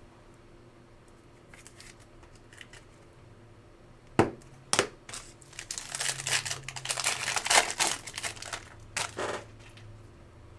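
A trading-card pack wrapper is torn open and crinkled by hand. There are two sharp snaps about four seconds in, then a couple of seconds of dense crinkling, and a last brief rustle near the end.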